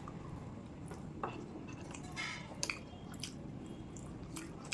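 Close-up chewing and wet, squishy mouth sounds of someone eating rice with curry, with a handful of short sharp clicks.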